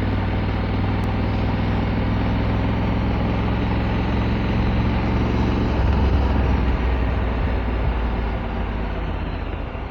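Honda Africa Twin's 1084 cc parallel-twin engine running steadily at low town speed, with road and wind noise; the engine note drops a little about six seconds in.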